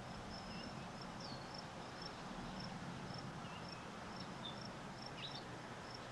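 A cricket chirps steadily, in short high chirps about twice a second. A few brief bird chirps come in, most of them in the second half, over a steady background hiss.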